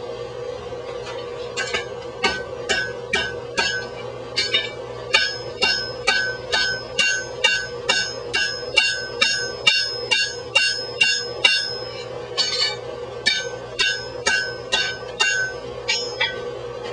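Blacksmith's hand hammer striking hot steel on an anvil in a long steady series, about two and a half ringing blows a second, with a short break about two-thirds of the way through, over a steady hum.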